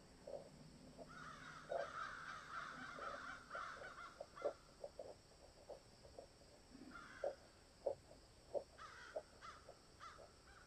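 Crows cawing in an added nature ambience: a run of calls about a second in, one near seven seconds, and several shorter caws near the end. Scattered short soft taps sound throughout.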